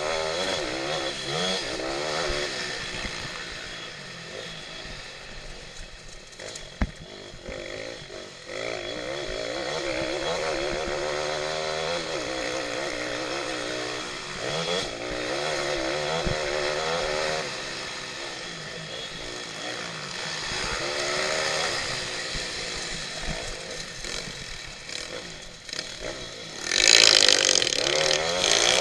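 Pitbike engine racing, its revs rising and falling over and over as the rider works through the throttle and gears. A sharp knock about seven seconds in, and a louder rushing burst near the end.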